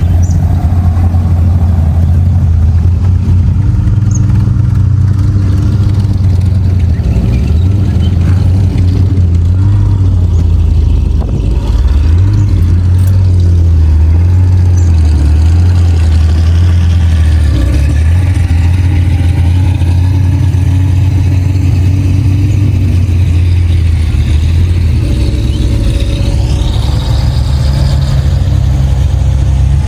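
Engines of classic cars leaving a car show, a loud continuous low rumble at idle and low revs, with the pitch rising and falling as cars pull away and pass.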